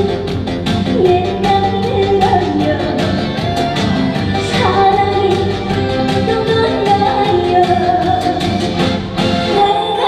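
A woman singing a Korean trot song live over a band backing track with a steady drum beat.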